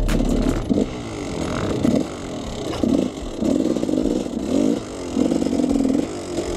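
KTM 300 EXC two-stroke enduro engine revving up and down in repeated throttle blips, with scattered knocks and clatter.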